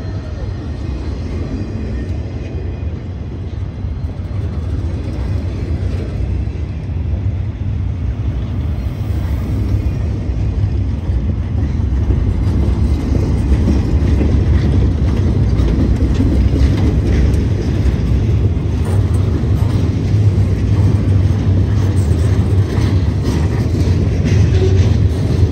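Cars of a long welded-rail freight train rolling past slowly: a steady low rumble of wheels on rails that grows louder about halfway through.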